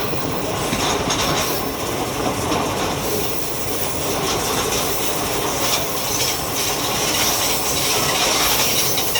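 Train wheels running over the rails at speed: a steady rumble with repeated clicks from the rail joints.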